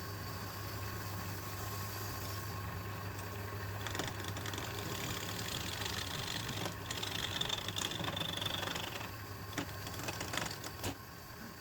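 Wood lathe running with a steady motor hum. A louder, higher noise joins it from about four to nine seconds in, with a few sharp clicks.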